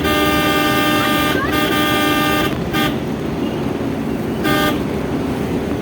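Vehicle horn honking over steady road rumble from a moving car: a long blast of about two and a half seconds, broken once, then two short toots.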